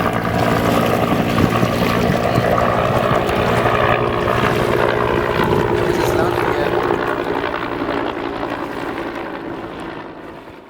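Bell AH-1 Cobra helicopter in flight, its rotor and turbine running loud and steady, then fading gradually over the last few seconds as it moves away.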